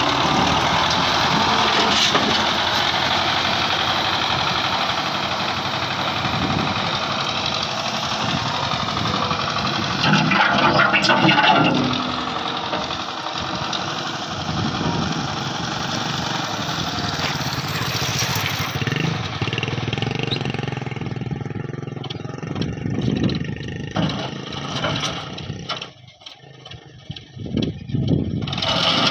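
Tractor diesel engine running steadily, growing louder for a couple of seconds about ten seconds in, then becoming quieter and uneven near the end.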